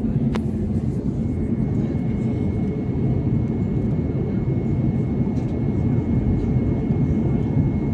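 Airbus A321neo cabin noise in flight: a steady low rumble of airflow and engines with a faint steady high whine. A single click sounds just after the start.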